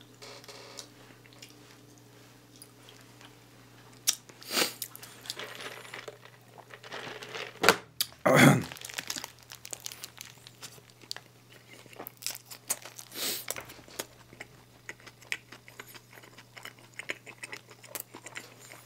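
Close-miked eating of a paper-wrapped McDonald's sandwich. There are crunchy bites and wrapper crinkling, loudest about four and eight seconds in, then a run of crisp chewing clicks.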